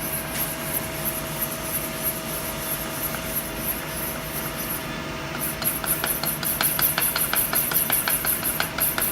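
CNC turning center running with a steady hum and a high pulsing hiss. About halfway through, a rapid, even run of clicks begins, roughly five a second, typical of the manual handwheel's detents as the tool is cranked slowly away from the job.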